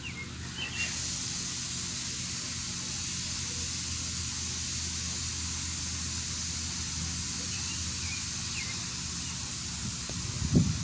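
Grinding noise from an industrial plant: a steady high hiss that switches on about a second in, over a constant low machinery hum. A few short bird chirps come through, and a low thump sounds near the end.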